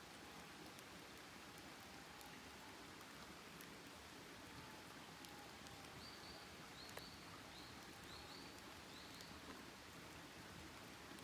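A campfire burning low with faint crackling and a few sharp pops. In the second half a small bird gives about five short high chirps.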